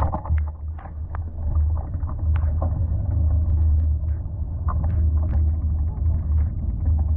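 Steady low rumble of a vehicle on the move, with scattered light ticks and taps over it.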